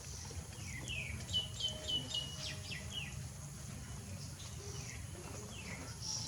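A quick run of about eight short, high chirps, each dropping in pitch, with one more chirp near the end, over a steady low background rumble.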